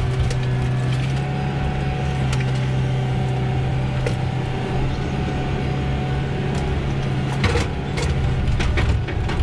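Cat 312CL excavator's diesel engine running steadily under work, with a few sharp knocks and cracks of demolition debris near the end.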